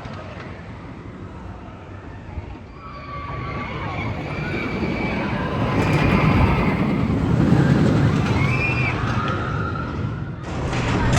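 Roller coaster train rumbling along its track, growing louder and then easing off, with riders screaming over it. The sound changes abruptly about ten seconds in.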